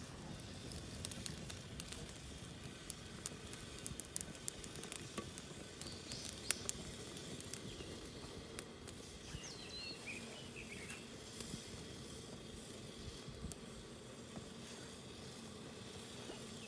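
Small wood fire crackling, with many short sharp pops over a steady low outdoor rumble. A few short bird chirps come in around the middle.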